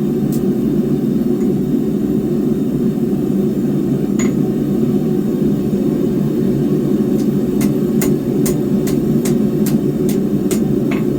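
Steady rushing noise of the forge running throughout, with a single hammer strike on hot steel bar about four seconds in. From about seven seconds in, a run of regular hammer blows on the anvil, roughly two and a half a second, drawing out the square bar.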